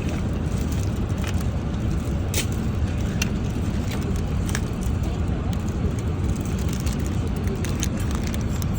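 Steady low rumble of airliner cabin noise inside an Airbus A380, the drone of engines and airflow, with a few faint clicks.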